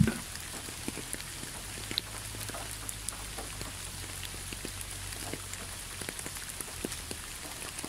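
Steady rain falling, with many small drops ticking here and there.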